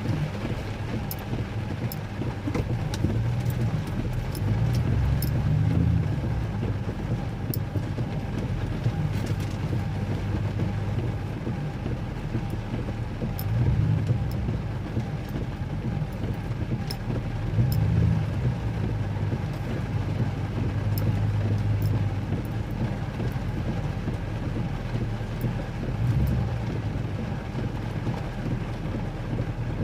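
Vehicle engine running at low speed as it turns around and backs into a parking spot, its note swelling briefly about five times as it is given throttle. Faint scattered ticks sound over it.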